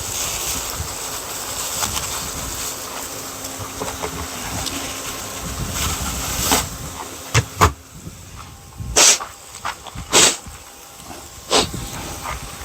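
Steady hissing, then about six sharp knocks or clatters spread over the second half.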